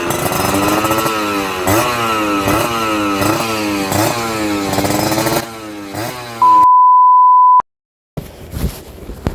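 Kawasaki Ninja R 150's two-stroke single-cylinder engine revved over and over, its pitch climbing and dropping back about once a second. About six and a half seconds in, it gives way to a steady high beep lasting about a second, followed by a short silence.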